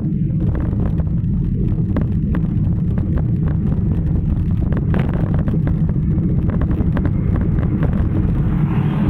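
Wind buffeting the microphone during a bicycle ride, a loud steady low rumble with faint scattered clicks.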